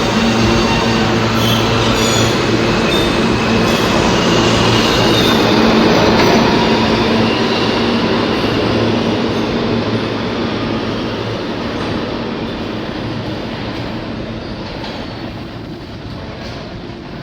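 New York City subway train running along the platform with a steady motor hum, rail noise and some high wheel squeal. It grows slightly louder to about 6 seconds in, then fades steadily as it moves away.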